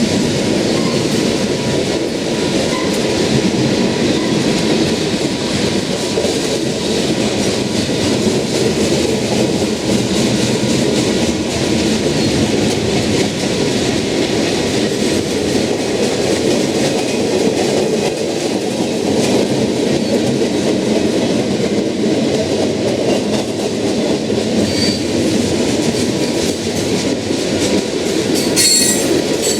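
Freight train cars rolling past steadily, wheels clicking over the rail joints. A brief high wheel squeal comes near the end.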